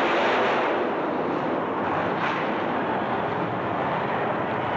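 Loud, steady engine noise from a racing truck running hard.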